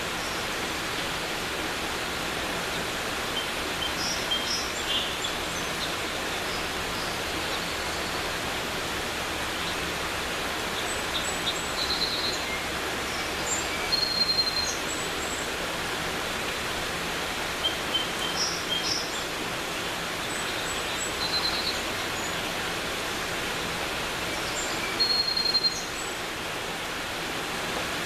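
Steady rushing of a mountain creek, with small songbirds chirping in short high notes over it now and then.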